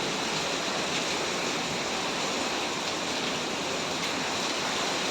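Hurricane-force wind and rain rushing steadily, an even, unbroken hiss with no gusts standing out.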